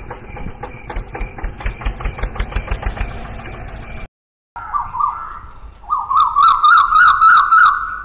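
Tractor engine running with an even knock, about five beats a second, that cuts off abruptly about four seconds in. After a short gap a high warbling tone comes in, wavering quickly in pitch and getting louder near the end.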